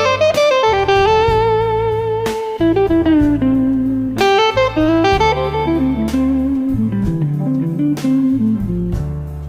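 Slow blues music: an electric lead guitar plays sliding, wavering notes over a bass line and drums. A gliding note rises at the start, and a lower phrase comes in about half way through.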